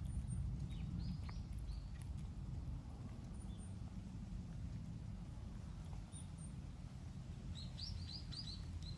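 Small bird chirping outdoors: a few short high chirps about a second in and a quick run of chirps near the end, over a steady low rumble of outdoor background noise.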